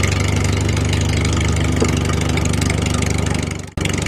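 Small engine of a DIY mini tractor running steadily with a fast, even beat, cutting out abruptly near the end.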